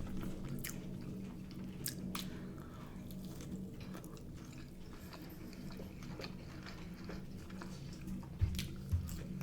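A person chewing food close to the microphone, with scattered small mouth clicks over a steady low hum, and two low thumps near the end. The food is air-fried frozen straight-cut chips and battered cod.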